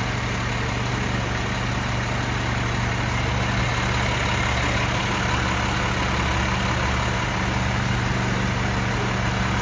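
Heavy truck engines idling with a steady low hum and no change in pitch.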